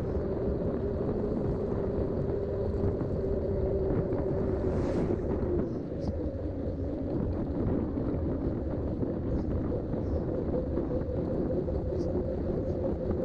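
Mountain bike in motion: its Schwalbe tyres humming as they roll, with wind rushing over the action-camera microphone. The hum drops in pitch about six seconds in, as the bike slows.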